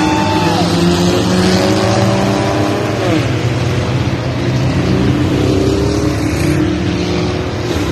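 Car engines running on a race track, their pitch dropping twice as they come off the throttle and rising again as they speed back up.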